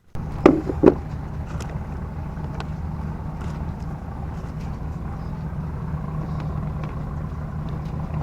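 A steady low motor hum with a constant low tone, and two sharp knocks about half a second and one second in, then a few light clicks.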